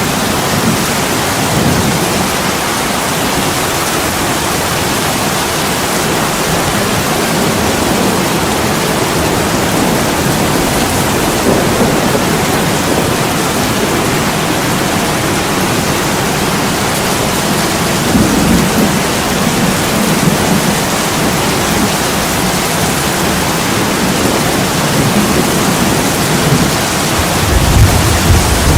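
Heavy rain pouring on an attic window as a steady, dense hiss, with a few low rumbles swelling under it, the strongest near the end.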